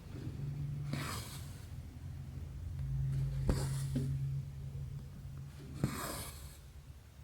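Cotton embroidery thread being drawn through cross-stitch canvas, a soft swish three times about every two and a half seconds, with a few light clicks of the needle between pulls over a low steady hum.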